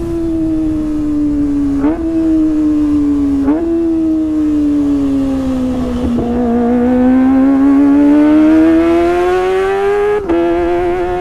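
Kawasaki ZX-25R's 250 cc inline-four engine at high revs through a Sportisi Motorsport SRX aftermarket exhaust, its high-pitched note easing off with two sharp jumps up in pitch near the start, then climbing steadily before a brief dip as it shifts near the end.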